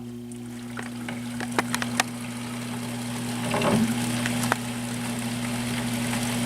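Arctic Queen WWK05CM71N window air conditioner's fan running on low: a steady electrical hum under a rush of air that slowly grows louder as the fan spins up, with a few light ticks.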